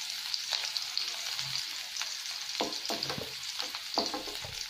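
Cauliflower florets sizzling in hot oil and butter in a metal kadai, with a wooden spatula scraping and knocking against the pan a few times as the florets are lifted out.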